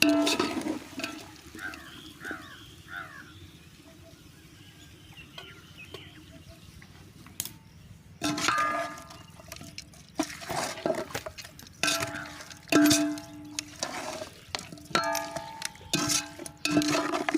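Metal ladle stirring and scraping in a metal cooking pan, clanking against the rim with a ringing tone in repeated strokes about once a second from about halfway through. A few short bird chirps come early on.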